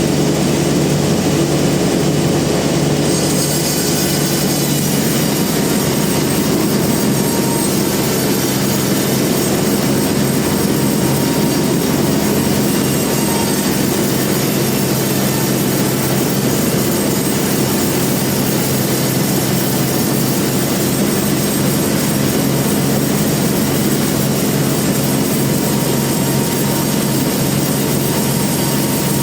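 Large band sawmill running steadily, a loud machine hum with a constant high whine. Its upper range changes about three seconds in.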